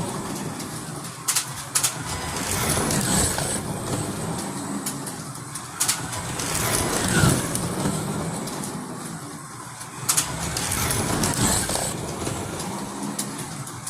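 Slot cars' small electric motors whirring around the track, the sound swelling and fading as the cars pass by every few seconds, with a few sharp clicks.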